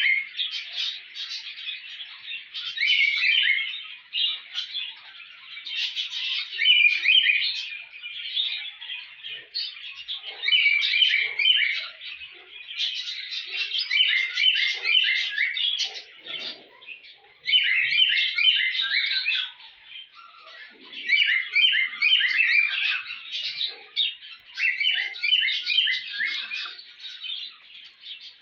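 Bird chirping in rapid bursts of short, high notes, phrase after phrase with brief gaps between them.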